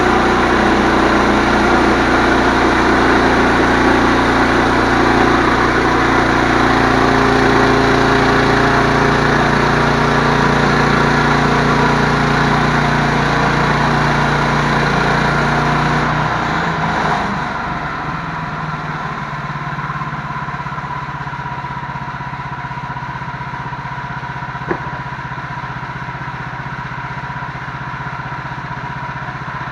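An engine running steadily under load, then about 17 seconds in it drops back to a quieter, lower idle. There is a single short click near the end.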